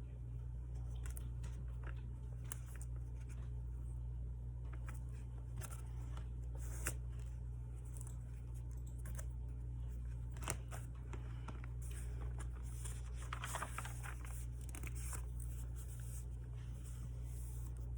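Hands working a paper planner with washi tape and stickers: scattered small taps and clicks, with a longer papery rustle about thirteen to fifteen seconds in, over a steady low hum.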